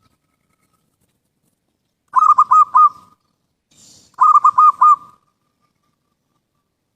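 Zebra dove (perkutut) cooing: two phrases of four or five rapid notes each, about two seconds apart.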